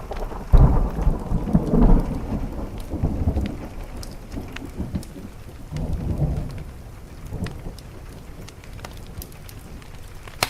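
A thunderclap about half a second in, rolling into low rumbles that swell again around six seconds and then die away, over steady rain on a window.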